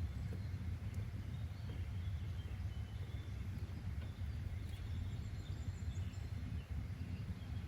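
Steady outdoor nature ambience: a low, even rumble with faint, scattered bird chirps over it.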